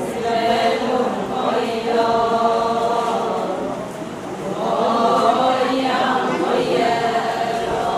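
Group of voices chanting together in unison: the chorus of an Adi Ponung song, sung as the group's response after the lead singer's line. The chanting is continuous, with a slight dip about halfway through.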